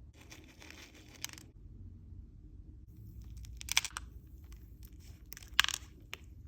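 Textured slime being worked by hand: a crinkly crackling for about a second, then, after a short pause, a run of sharp crackles and pops, with two louder pops a little under two seconds apart.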